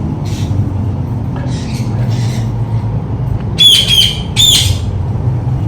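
Indian ringneck parakeet giving two shrill squawks about three and a half and four and a half seconds in, the first a quick run of notes. A steady low rumble sits underneath.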